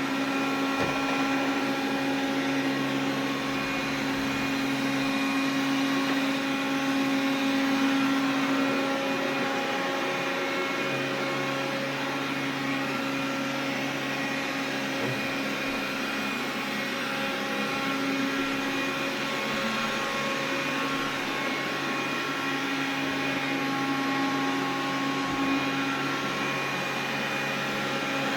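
Xiaomi vacuum cleaner running steadily: a continuous motor hum with a strong steady tone over the noise of the airflow.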